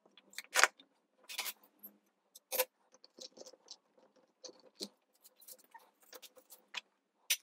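Ink stamp being inked on an ink pad and pressed onto card: a series of light taps, clicks and paper rustles, the loudest sharp clicks a little under a second in and about two and a half seconds in.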